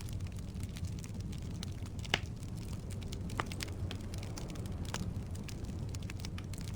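Firewood burning in a fireplace: a steady low rumble of flame with scattered sharp crackles and pops, the loudest a little over two seconds in.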